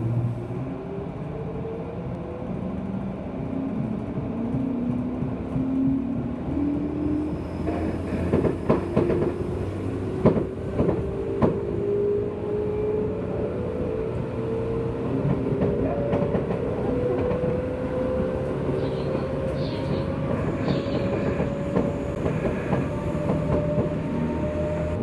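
JR West 201 series electric train accelerating, heard aboard its motor car: the traction motors and gears whine, rising steadily in pitch as speed builds, over a steady running rumble. Rail-joint clicks come in a cluster about a third of the way in.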